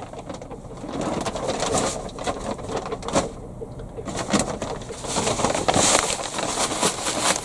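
Hands rustling and mixing seed compost, lightening it with an additive, with many short scratching and scraping sounds. A pigeon coos in the background.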